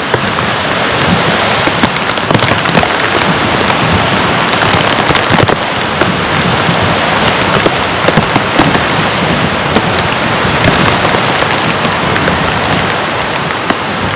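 Heavy rain falling steadily, a dense hiss of many close, sharp drop hits.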